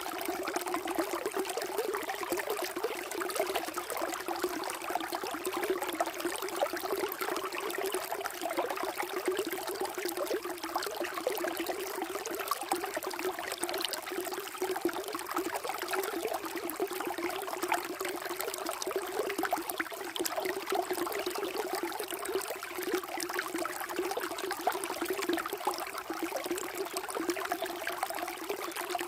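Water flowing and trickling steadily, like a small stream.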